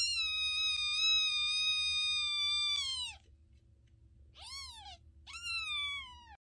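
A cat meowing: one long drawn-out meow that falls in pitch at its end, then two shorter meows that rise and fall.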